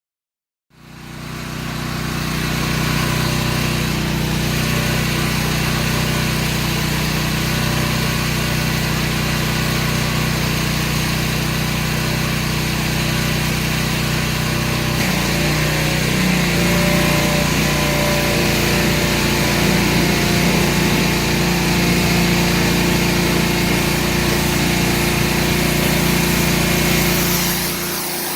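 A machine or motor running steadily with a low, even hum; its tone shifts slightly about halfway through.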